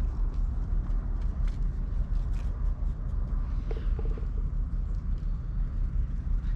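Steady, uneven low rumble with faint scattered clicks and a few brief high notes near the middle.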